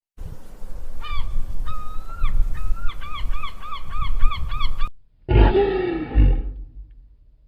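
A bird honking in short, nasal-sounding calls that speed up into a rapid even series of about four a second, over low rumbling outdoor noise. Near the end it cuts off and a louder, deeper animal call with a falling pitch follows.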